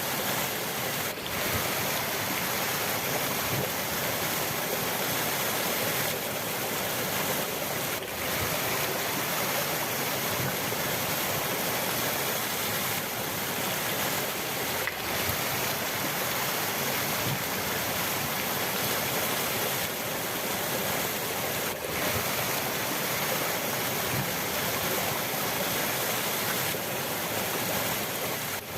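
River water rushing in a steady, even hiss, with a few momentary dips in level.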